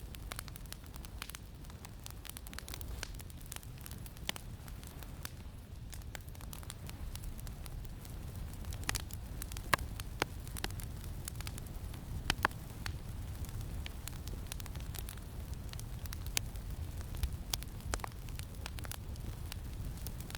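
Campfire crackling, with irregular sharp pops that come more often and louder from about halfway through, over a steady low wind rumble.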